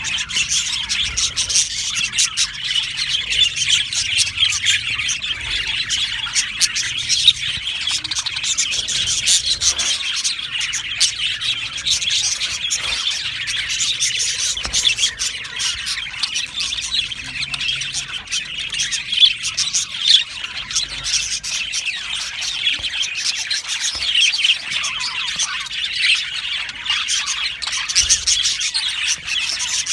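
A flock of budgerigars chirping and chattering together, many birds at once in a continuous, busy warble with no pauses.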